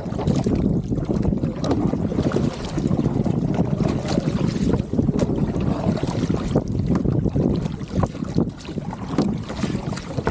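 Strong wind buffeting the microphone over water rushing and splashing along the hull of a TRIAK sailing kayak moving fast in a force-4 wind, with many short sharp slaps of spray.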